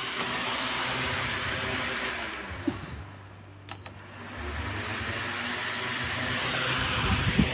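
16-inch electric stand fan running, its air noise dying down about three seconds in and building back up. Two short high beeps and a few clicks sound as it slows.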